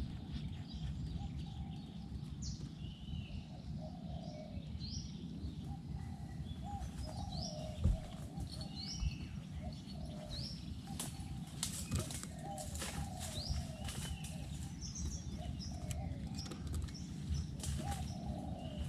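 Spotted doves cooing in repeated short low phrases, with high short chirps from small birds and scattered sharp clicks over a low rumbling background.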